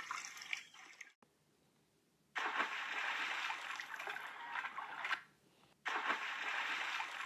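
Water splashing and trickling, laid in as separate stretches that start and stop abruptly, with a full silence about a second in and a short gap later on.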